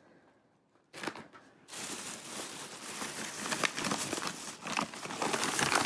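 Snack packaging crinkling and rustling as it is handled, starting just under two seconds in and growing louder toward the end.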